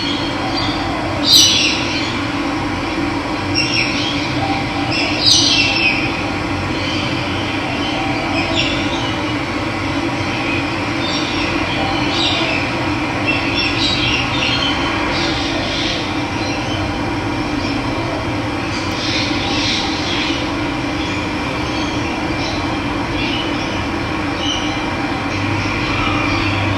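Steady rush of running water with birds chirping over it, the loudest chirps about one and five seconds in and fainter ones scattered after.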